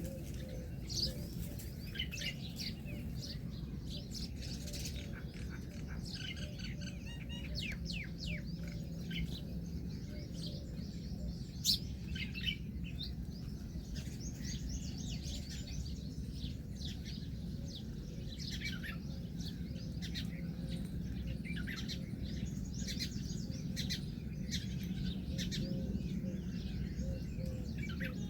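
Birds chirping, many short high calls overlapping one another, over a steady low hum.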